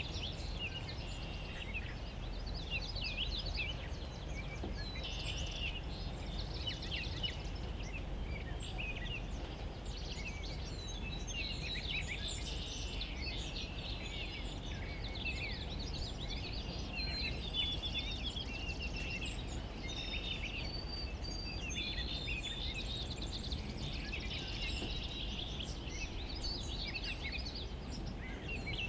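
Several small songbirds chirping and singing all through, dense overlapping calls, over a steady low background rumble.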